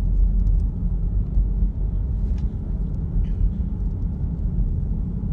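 Car driving, heard from inside the cabin: a steady low rumble of engine and tyres on the road, with a couple of faint ticks.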